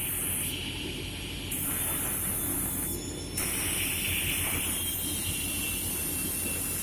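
Holzma panel saw machine running: a steady machine hum under a high hiss that cuts in and out every second or two.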